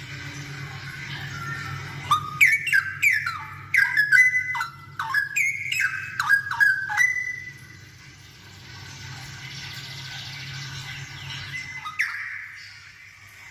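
Straw-headed bulbul (cucak rowo) singing vigorously. A loud burst of rapid, falling, liquid whistled notes runs for about five seconds, with quieter warbling before and after and one more sharp note near the end, all over a faint steady low hum.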